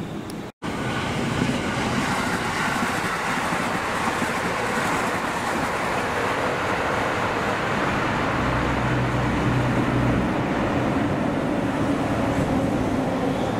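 Electric multiple-unit passenger train running past on the line: a steady rumble of wheels on rail, with a low hum coming in for a couple of seconds about eight seconds in. The sound cuts out for an instant just after the start.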